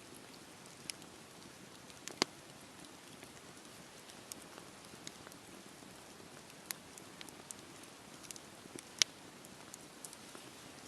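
Campfire burning: a soft steady hiss under irregular crackles and pops of burning wood, with two sharp pops standing out, about two seconds in and near nine seconds.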